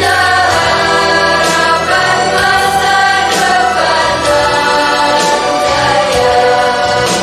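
Choir singing in parts over a steady instrumental backing, holding long notes.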